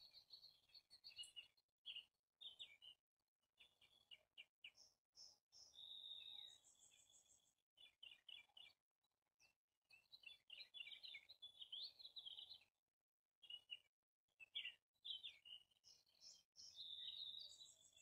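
Faint songbird chirping: quick runs of short high notes and little trills, with brief pauses between them.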